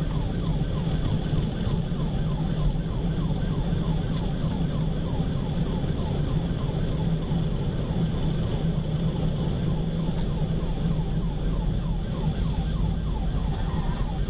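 Police car siren on a rapid yelp, sweeping about three times a second, over the steady low rumble of the patrol car's engine and road noise during a high-speed pursuit.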